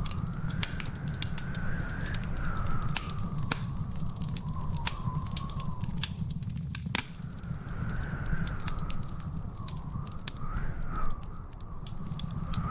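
Wood fire crackling with frequent sharp pops and snaps over a steady low rumble. A thin, high, wavering whistle runs underneath and drops out for about a second just past the middle.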